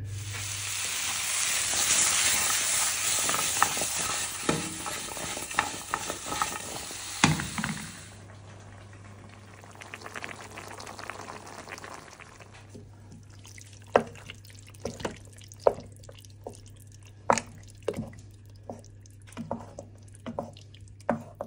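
Diced pumpkin frying in hot oil, a loud sizzle with a few knocks of a wooden spoon. About eight seconds in the sizzle gives way to quieter stirring: the spoon knocks and scrapes in a pot of thick curry sauce.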